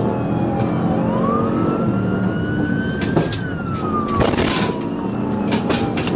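Police siren in a slow wail, its pitch falling and rising over several seconds, over the steady engine and road noise of a patrol car in pursuit. A short rush of noise comes about four seconds in.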